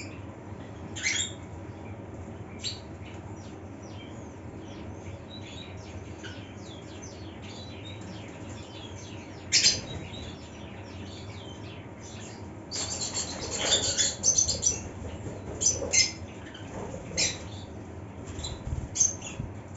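A colony of lutino red-headed lovebirds chirping: short, sharp high calls scattered throughout over a steady low hum. There is a loud burst about ten seconds in and a busier run of chatter a few seconds later.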